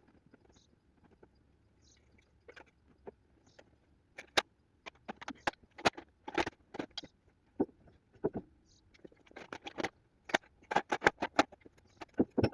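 Irregular knocks and clunks of a log being worked into place, sparse and faint at first, then louder and coming thicker from about four seconds in.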